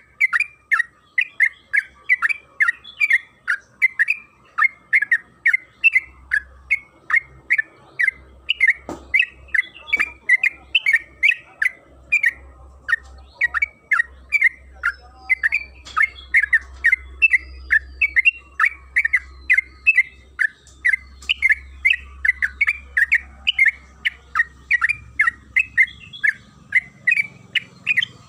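Yellow-vented bulbul (trucukan) singing a long, unbroken run of short chattering notes, about three a second, with no pause. A faint low hum comes in about six seconds in and fades near the end.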